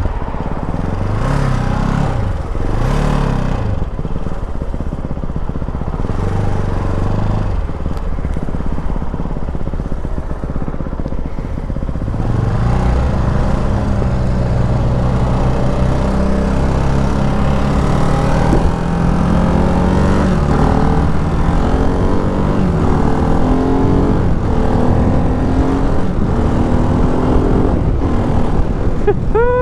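Ducati Hypermotard 698 Mono's single-cylinder engine pulling hard under acceleration, its note climbing and dropping again and again as the bike is ridden.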